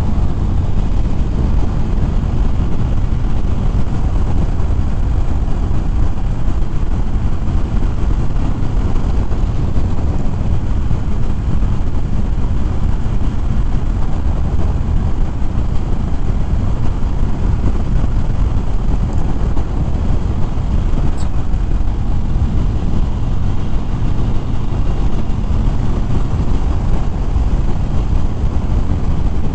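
Steady rush of riding wind over the microphone, mixed with the low engine drone of a Harley-Davidson Fat Bob V-twin motorcycle cruising at road speed.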